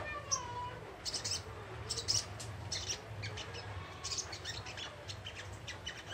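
Young wild-caught sunbird chattering in a rapid run of short, high chirps and twitters, with a steady low hum underneath.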